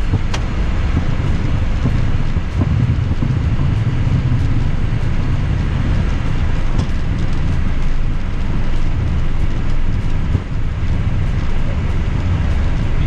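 Loud, steady low rumble in the cockpit of a Cessna Citation V Ultra business jet rolling on the ground after landing: engine and airframe noise with the wheels running over the pavement.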